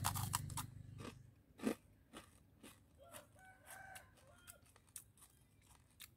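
Crunching bites and chewing of a crispy sugar-glazed dried rice cake (cơm khô ngào đường), with sharp cracks in the first second and another loud crunch a little later, then softer chewing. A rooster crows faintly in the background around the middle.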